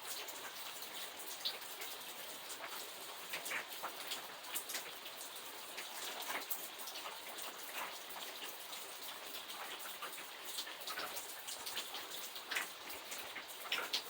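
Steady rain falling, a continuous hiss with many individual drops ticking sharply on a nearby surface.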